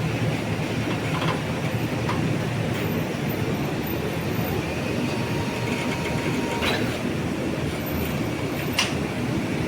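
Electric high reach truck running: a steady mechanical rumble, with a few sharp metallic clicks and clanks.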